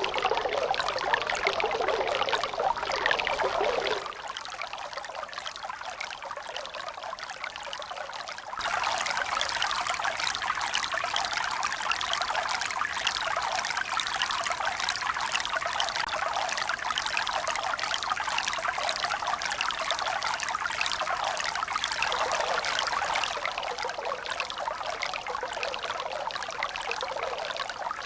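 Steady rushing and splashing of running water. It turns abruptly thinner and quieter about four seconds in, comes back fuller a few seconds later, and drops a little again near the end.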